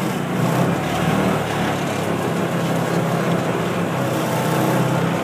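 An engine running steadily at an even pitch, loud and unchanging, with a low drone under a rough noisy rattle.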